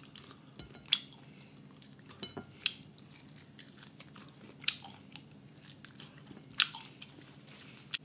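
A person chewing rotisserie chicken close to the microphone, with a few sharp, wet mouth clicks scattered a second or two apart.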